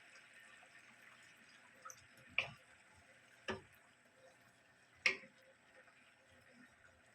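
Kitchen utensils knocking and clinking three times, sharp and brief, about a second or so apart, over a faint hiss.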